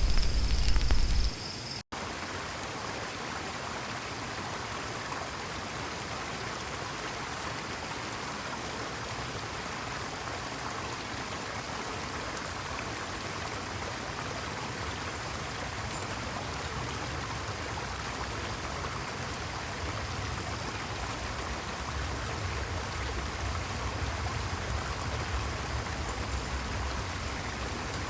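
Jungle river or stream running steadily over rocks, an even rush of water. A louder sound with a deep rumble cuts off about a second in.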